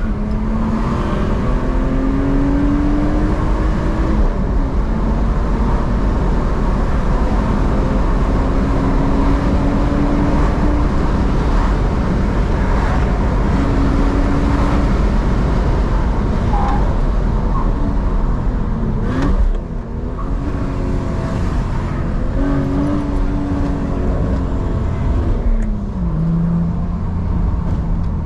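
BMW E46 engine under hard acceleration, its note climbing through the revs. It drops sharply at gear changes about 4 s and about 20 s in, with a short sharp sound at the second drop. It then settles to a steady lower note near the end, over constant road and tyre noise.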